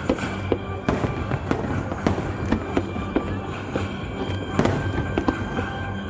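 Aerial fireworks exploding in an irregular string of sharp bangs and crackles, about one every half second, with a louder cluster about two-thirds of the way through. Music plays steadily underneath.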